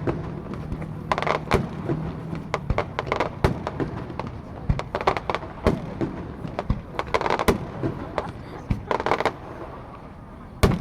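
Fireworks shells bursting in quick, irregular succession: sharp bangs and crackles, over a murmur of onlookers' voices.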